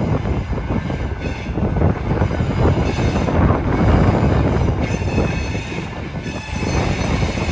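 Freight cars rolling around a curve, their wheels squealing in thin high tones over a low rolling rumble.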